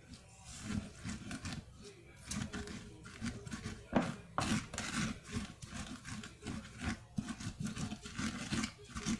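Close-miked eating sounds: chewing and mouth noises coming irregularly, with small clicks throughout.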